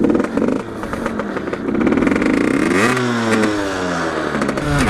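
Rieju MRT 50's 50cc two-stroke engine revving as the bike pulls away in a low gear. Its pitch sweeps sharply up about three seconds in, then falls away in steps.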